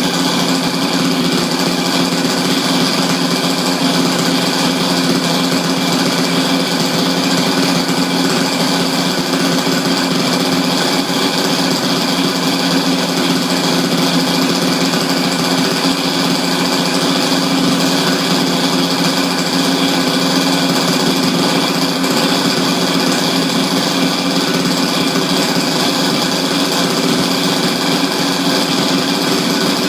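The single small gasoline engine of a radio-controlled quadcopter, running steadily at a constant speed.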